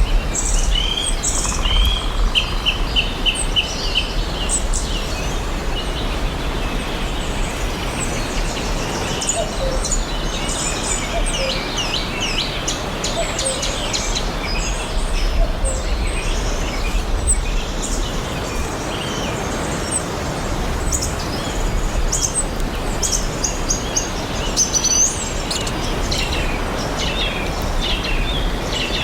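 Several songbirds chirping and singing in a forest, with short calls and quick trills overlapping throughout, including a fast repeated trill near the start, over a steady low rumble of background noise.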